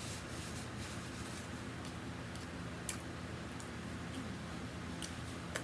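Quiet chewing of fried chicken nuggets: a few scattered, sharp mouth and food clicks over a steady low room hum.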